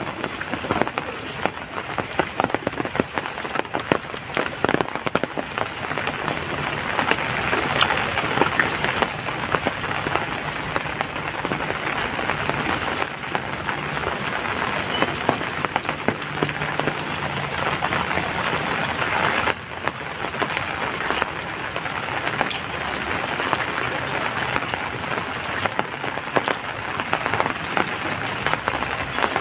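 Heavy rain falling steadily, a dense patter of many drops striking a surface, dipping briefly about two-thirds of the way through.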